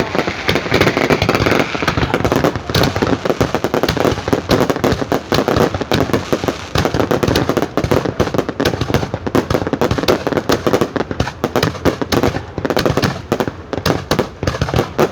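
Fireworks display: a dense, continuous barrage of rapid cracks and bangs, many each second, without a pause.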